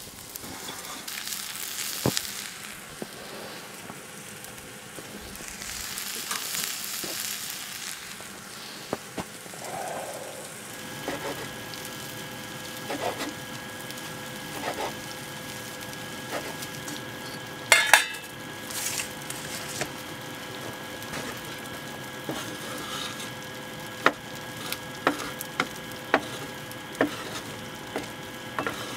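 Food sizzling in a pan over a camp fire grate, with scattered clicks and knocks of a knife on a wooden cutting board and a wooden spoon stirring in the pan.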